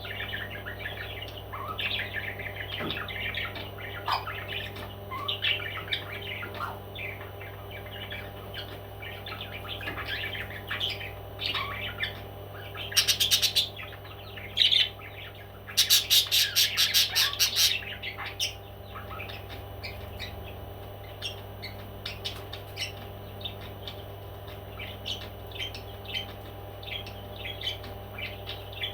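Parrots chirping and chattering, with two loud spells of rapid, harsh repeated calls about halfway through, over a steady low hum.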